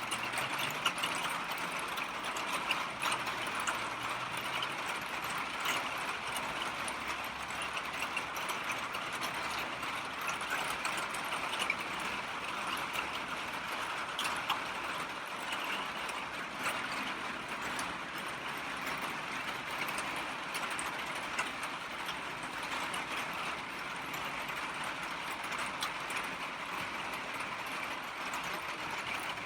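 Heavy rain falling steadily, a constant hiss of rain with many small drop taps mixed through it.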